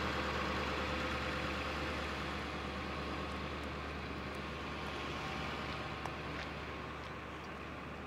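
Vehicle engines idling: a steady low hum with a higher rush over it that slowly grows quieter.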